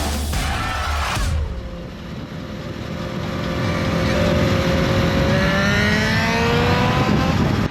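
Motorcycle engine accelerating, its pitch rising steadily for about five seconds before cutting off. Music plays for about the first second.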